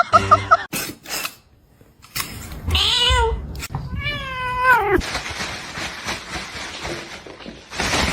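A cat meowing twice: two drawn-out calls about three and four seconds in, the second one longer and falling in pitch at the end. A few sharp clicks come before them.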